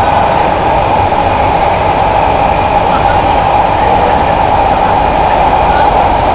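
Kawasaki–CSR Qingdao Sifang C151A metro train running at speed, heard from inside the car: a loud, steady running noise with a strong mid-pitched hum that stays even throughout.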